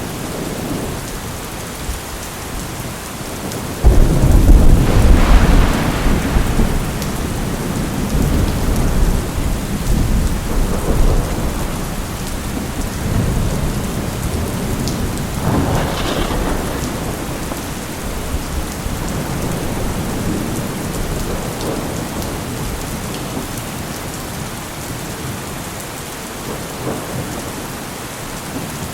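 Steady rain with thunder: a loud clap about four seconds in that rumbles away over several seconds, and a second, sharper crack midway through that fades out.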